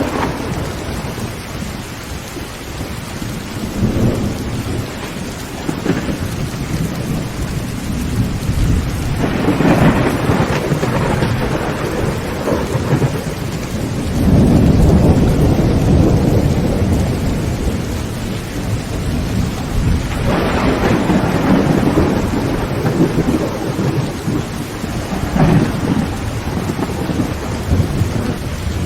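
Heavy rain falling steadily on a tin tent roof, with thunder rumbling several times over it; the longest and loudest roll comes about halfway through.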